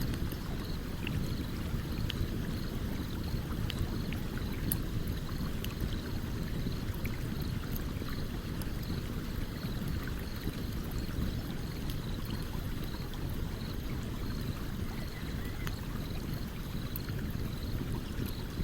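Wood campfire crackling, with scattered sharp pops and snaps, over the steady low rush of a flowing stream.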